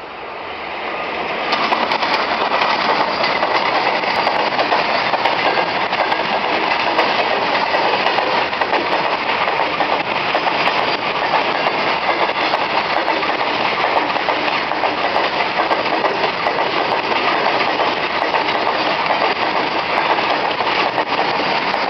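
A freight train's wagons rolling past on a railway bridge: a steady, loud rumble and clatter of wheels on rails. It builds over the first couple of seconds, then holds even.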